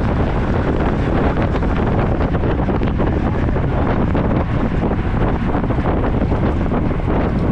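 Wind rushing and buffeting over the camera's microphone while riding a road bicycle, a steady loud roar heaviest in the low end.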